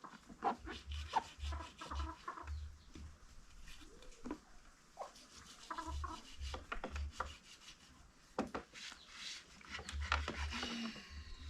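Irregular rubbing and scraping with scattered short knocks and clicks.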